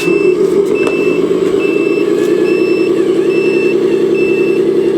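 A mini truck's reversing alarm beeping evenly, about five beeps every four seconds, over its engine running steadily.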